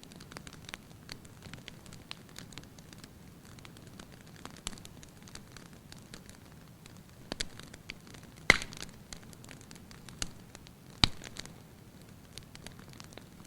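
Wood fire burning in an open hearth, crackling with scattered small clicks over a low steady rumble. Two louder pops come, one just past halfway and another a couple of seconds later.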